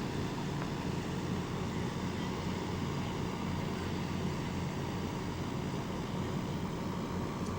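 Steady engine and road noise of a car, heard from inside the cabin while driving.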